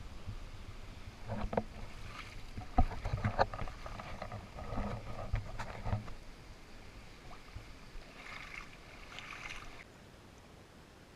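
Water splashing and sloshing close to the camera, with irregular knocks for several seconds, then a shorter splash near the end before it falls quiet.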